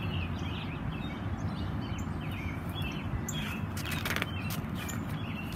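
Outdoor background with small birds chirping here and there over a steady low hum of ambient noise; a short rustle of a book page being handled about four seconds in.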